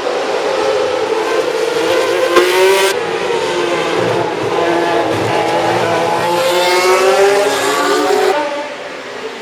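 Historic 1966–72 Formula One race car engines at racing speed, their high-pitched notes rising and falling as they rev up and change gear. The sound drops away near the end.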